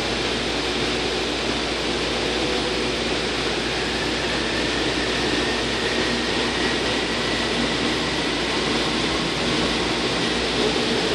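AirTrain JFK car running between stations, heard from inside the car: a steady rumble and hiss, with a faint whine that rises slightly from about four seconds in.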